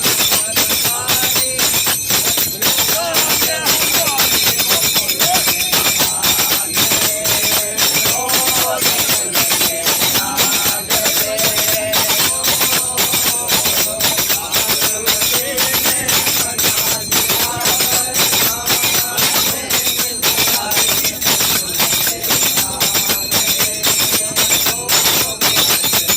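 Devotional bhajan sung by a group of voices over a fast, steady beat of jingling hand percussion and cymbals.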